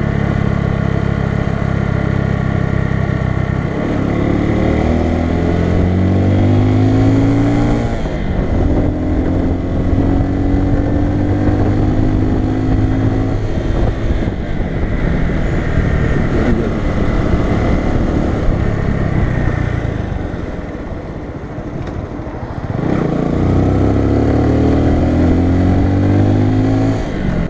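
Bajaj Boxer BM 150's single-cylinder four-stroke engine running steadily, then pulling away about four seconds in with its pitch rising through gear changes. It eases off for a couple of seconds later on, then accelerates again near the end.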